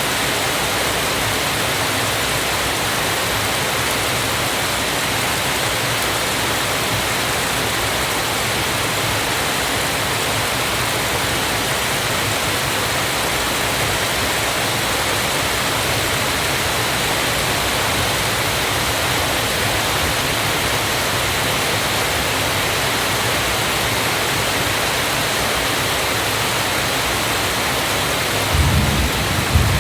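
Waterfall: a steady, even rush of falling water, with a few low rumbles coming in near the end.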